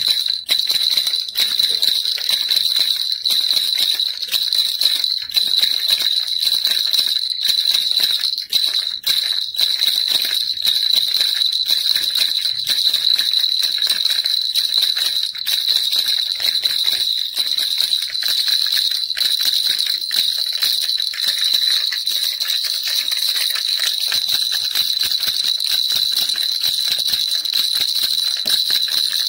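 Baby rattle shaken continuously, giving a steady bright jingling with fast, dense rattling strokes.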